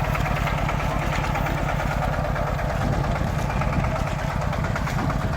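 Tractor engine running steadily, its firing an even, rapid chug.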